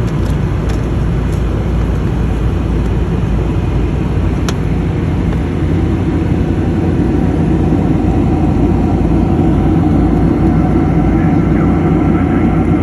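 Steady jet airliner cabin noise, engines and rushing air heard from inside the cabin during the descent to land.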